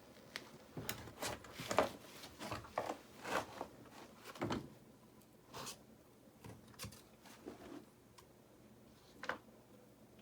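Irregular scraping and knocking of hand work with tools and stones: a quick run of short strokes in the first few seconds, then only a few scattered ones.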